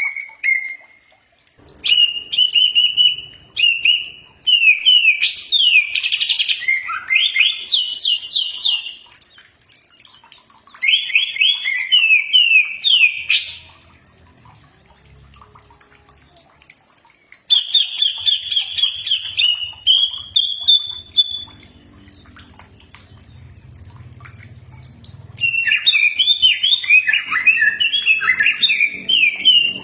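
Cucak ijo (greater green leafbird) singing a loud, fast song of whistled phrases, trills and quick rising sweeps, in four bouts separated by pauses of a few seconds.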